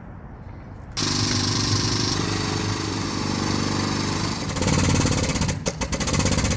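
A loud workshop power tool starts abruptly about a second in and runs steadily with a pitched hum. Past the middle it turns into a rapid, even rattle of impacts.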